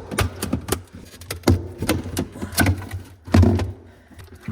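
Plastic cover panel in a refrigerator freezer being worked loose from its retaining tabs: a series of irregular clicks, knocks and rattles, the heaviest about three and a half seconds in.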